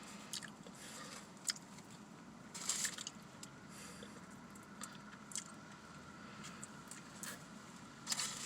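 Close-up eating sounds of a person biting and chewing a sausage, egg and cheese McMuffin: soft wet mouth smacks with a few sharper bites or crunches, the clearest about one and a half, three and eight seconds in. A faint steady hum sits underneath.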